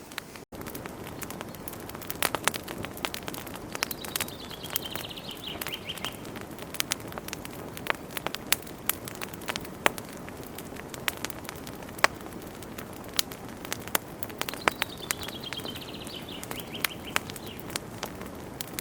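Wood fire burning in a fireplace, with a steady low rush and frequent sharp, irregular crackles and pops. Twice, about ten seconds apart, a short falling trill sounds over it.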